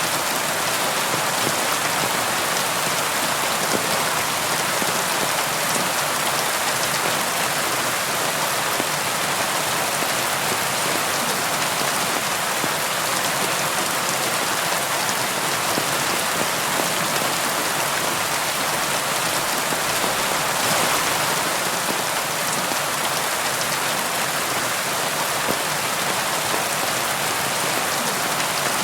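Rain falling steadily on a tin roof, a dense, even noise of countless drops that swells briefly about twenty seconds in.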